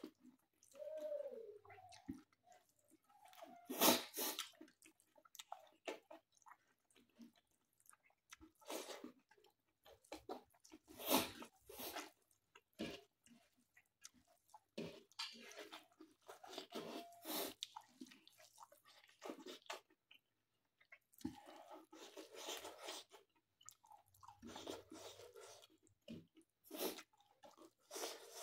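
Close-up chewing of a man eating mutton with rice by hand: irregular clicks and smacks of the mouth working on the food, on and off.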